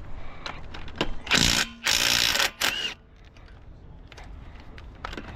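Cordless impact wrench run in three short bursts on the lug nuts of a car wheel during a flat-tire change, with scattered clicks and knocks of the tool and wheel between them.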